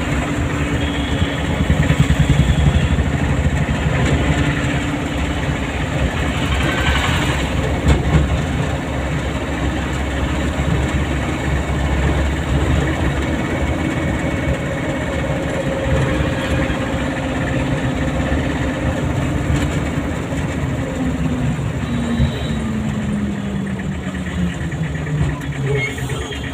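Car engine running with road noise while driving, its pitch falling near the end as the car slows.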